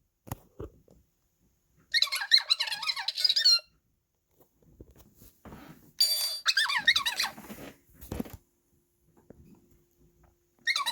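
Circuit-bent Telly the Talking Clock toy's voice chip with its pitch resistor shorted, playing its speech raised to a squeaky, chipmunk-like chirping in two bursts. A few light clicks come about half a second in.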